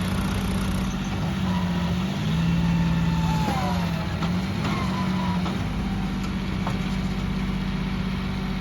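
Tractor diesel engine running hard under load in a tractor tug-of-war. Its note sags twice, about two and about three and a half seconds in, as the engine lugs, and comes back up each time.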